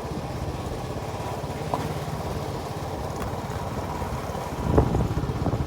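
Motorcycle engine running steadily, with a low, fast, even pulse. There is a louder bump about three-quarters of the way through.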